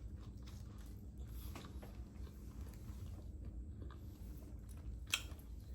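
Faint chewing and wet mouth sounds from a person eating, with scattered small clicks and one sharper click about five seconds in.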